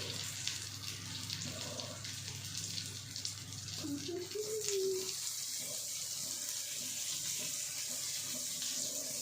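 Chicken fry sizzling steadily in the hot pan, a continuous hiss with a low hum underneath.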